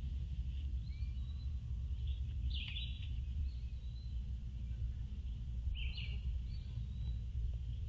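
Short bird chirps over a steady low rumble from the outdoor camera microphone, with the chirps clustering most strongly about three seconds in and again about six seconds in.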